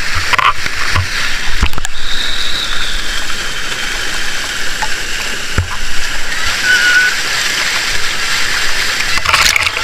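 Rushing water of a waterfall: a loud, steady, even hiss, with a couple of brief knocks.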